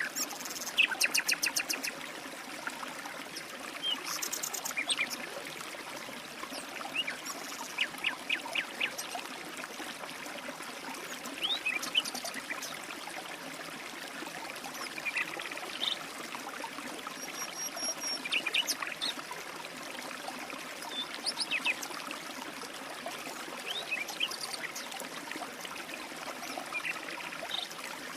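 A stream trickling steadily, with birds chirping and giving quick trills throughout.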